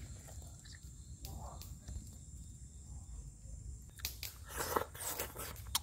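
A person eating, with crunchy bites and chewing that get louder in the last two seconds.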